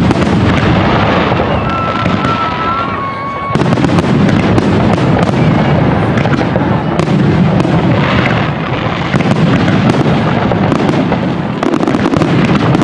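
Fireworks display with aerial shells bursting in a dense, continuous barrage: booms overlap one another and are laced with many sharp cracks, and there is no pause between bursts.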